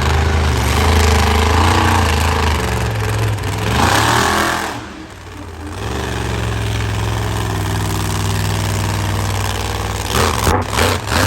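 Monster truck engine running loud, revving up with a rising pitch a few seconds in and dropping off sharply, then running steady, with a series of quick throttle blips near the end.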